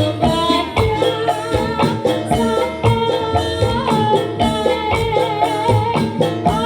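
Jaranan dangdut music: drums keep a steady beat under a wavering melody line, with rattling percussion.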